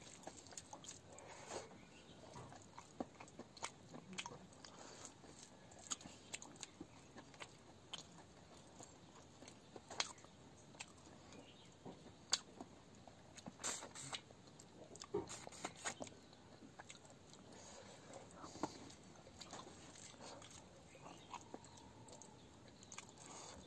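A person chewing and eating rice by hand, close up: chewing and mouth noises with many short, scattered clicks and smacks, faint overall.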